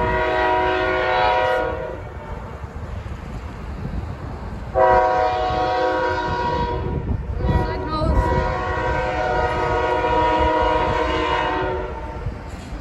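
Freight locomotive air horn sounding three long blasts: one ending about two seconds in, one starting near five seconds, and a longer one running from about eight to twelve seconds, over the low rumble of the oncoming train.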